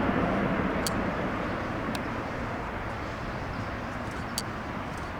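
Jet engine noise from an Airbus A350-900's Rolls-Royce Trent XWB engines, a steady rushing sound that slowly fades as the airliner moves away. A few faint sharp ticks sound over it.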